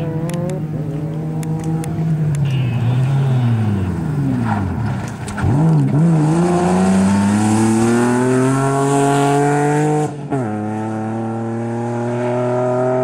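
BMW E36 3 Series engine revving hard on the course, pitch climbing through the revs, then dropping sharply about five seconds in and climbing again under acceleration. About ten seconds in the sound cuts to another run, with the engine pulling steadily at high revs.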